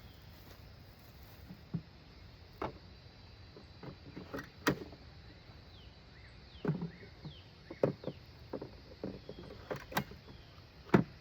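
Irregular sharp knocks and clicks of hard plastic being handled, as battery packs are pushed into a cordless lawnmower's battery slots and latched; a louder clunk comes near the end.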